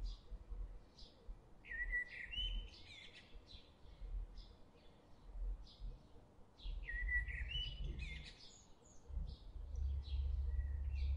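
Small birds chirping in repeated short phrases with quick rising notes, over a low rumble that comes and goes and grows loudest near the end.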